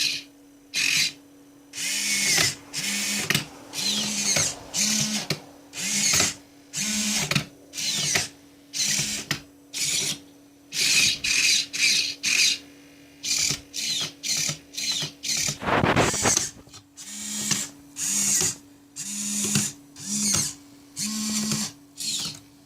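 Hobby servo motors in a 3D-printed InMoov robot hand and forearm whining in many short, irregular bursts as the fingers and wrist move, with brief pauses between moves over a steady low hum.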